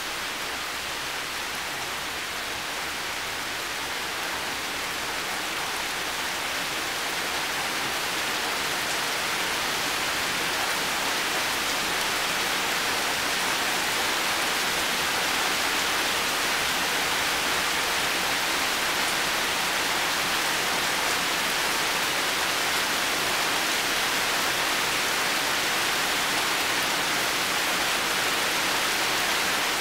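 Heavy rain falling steadily: a dense, even hiss that slowly grows louder over the first half and then holds steady.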